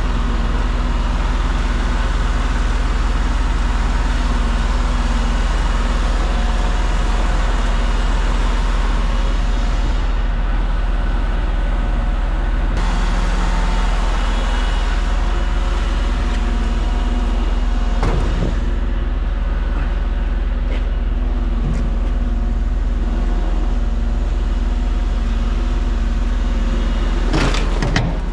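Truck engine running steadily with a deep, even rumble, with a brief knock about two-thirds through and another near the end.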